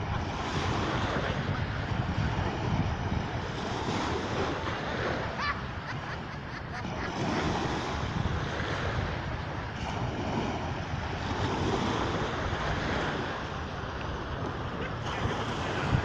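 Sea surf washing onto the shore, a steady hiss that swells and eases every few seconds as waves come in, with wind rumbling on the microphone.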